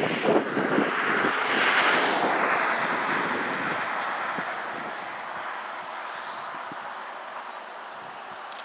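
Noise of a passing vehicle, swelling about two seconds in and then slowly fading away.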